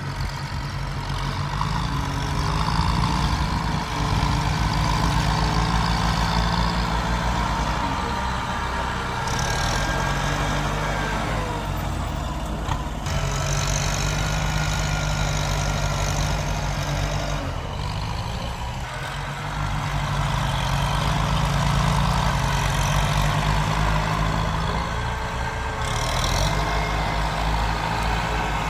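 Tractor's diesel engine running under working load, its note dipping and picking back up several times.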